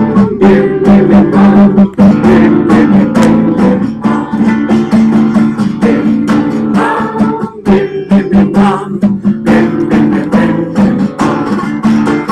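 Acoustic guitar strummed in a steady, quick rhythm, about four strums a second.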